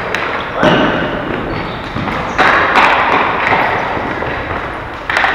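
Ball hockey play echoing in an arena: sudden thuds of ball or sticks against the rink boards, about half a second in and again about two and a half seconds in.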